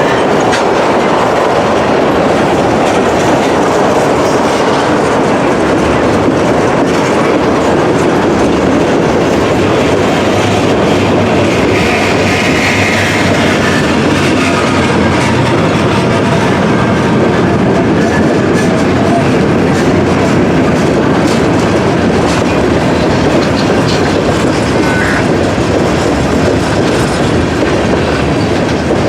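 Freight train cars rolling past at close range, their steel wheels clicking steadily over rail joints.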